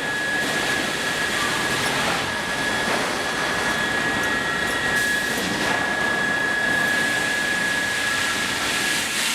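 Sawmill machinery running: a steady rushing noise with a steady high-pitched whine that stops near the end.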